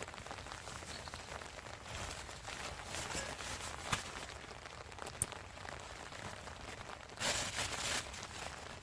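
Rain pattering steadily, with scattered sharp drops and ticks, and a brief louder rustling swell near the end.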